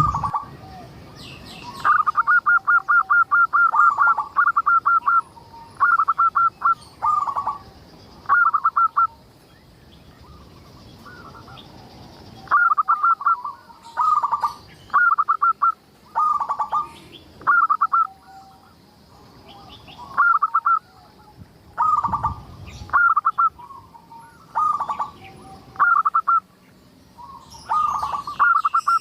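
Zebra dove (perkutut) cooing its song: repeated phrases of quick, staccato coo notes, each phrase a second or two long with short pauses between, and a longer lull about a third of the way in.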